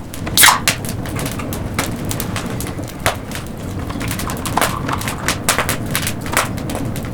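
Wood campfire crackling, with irregular sharp pops and snaps over a steady low rumble; a louder pop comes about half a second in.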